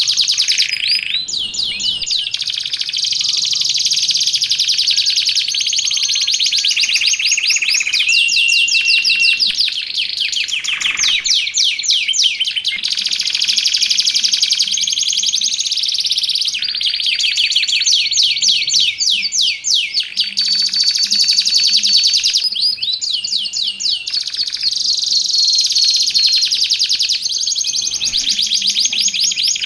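Domestic canary singing nonstop: long rolling phrases of fast trills and rapidly repeated chirps, broken by short steady whistled notes.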